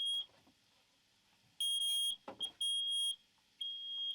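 Smoke alarm sounding a shrill, loud beep in blasts of about half a second. One blast ends just as the sound begins, and after a pause of about a second and a half come three more in quick succession. It has been set off by smoke from cooking.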